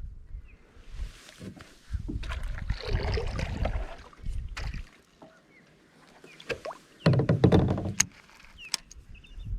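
Kayak on the water: knocks and thumps from paddle or gear against the hull, with water sloshing. They come in two bursts, the louder one about seven seconds in, followed by a few sharp clicks.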